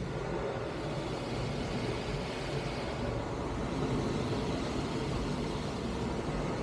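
Automatic car wash running: a steady rushing hiss over a low rumble.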